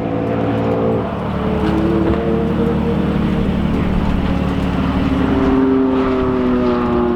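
Car engine running hard on a racetrack, its pitch shifting as the revs change about a second in.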